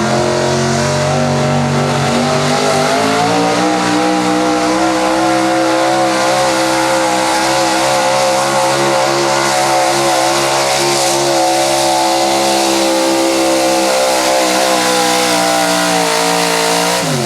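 Small-block Chevrolet V8 of a 1976 Chevrolet 4x4 pickup at full throttle, pulling a sled under load. Its pitch climbs a few seconds in and holds high and steady through the pull, then drops sharply near the end as the throttle is let off.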